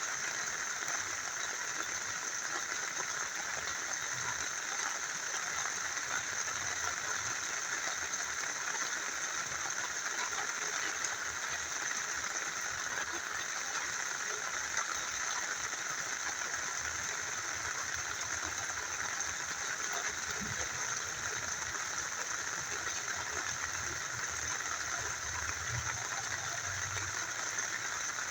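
A small stream flowing steadily with rain falling, an even rush of water that holds the same throughout.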